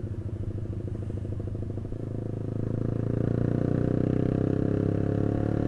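Yamaha YZF-R15's single-cylinder engine running through a custom racing exhaust while riding in gear, the note growing louder about two seconds in and then holding steady.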